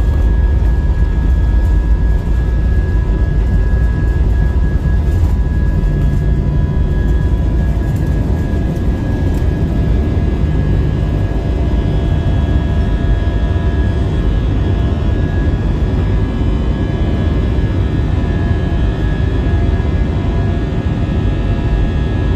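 Airbus A319 jet engines at take-off thrust heard inside the cabin: a loud, steady rumble with high, even whining tones from the engines.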